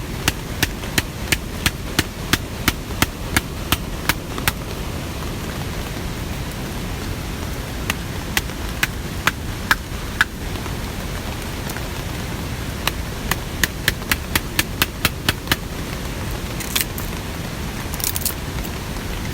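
Steady rain noise with runs of sharp, evenly spaced taps, about three a second, in the first few seconds and again about two-thirds of the way through.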